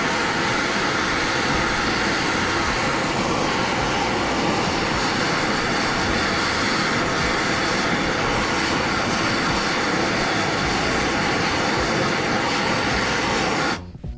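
A gas torch blowing steadily, heating the exhaust pipe around a stuck oxygen sensor so the pipe expands away from the sensor and frees it. The flame noise stays level and cuts off suddenly near the end.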